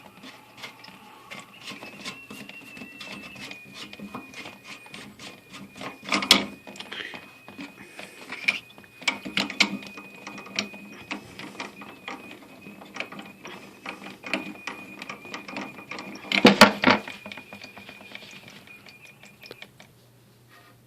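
A toilet fill valve's plastic nut under the tank being unscrewed by hand, its threads giving a long run of rapid clicks. A thin steady high whine runs through most of it. Two louder knocks come about six seconds in and near sixteen seconds.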